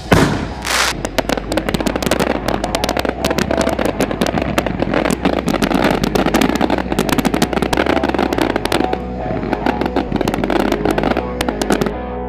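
Consumer fireworks crackling and popping in a dense, rapid string of sharp reports, opening with one loud bang. The pops stop shortly before the end.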